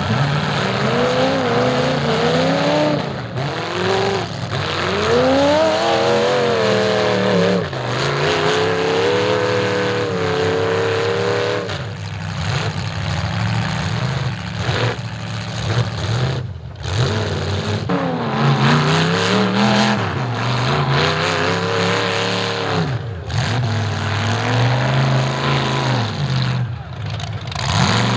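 Demolition derby car engines revving hard and falling back over and over, the pitch rising and dropping every couple of seconds.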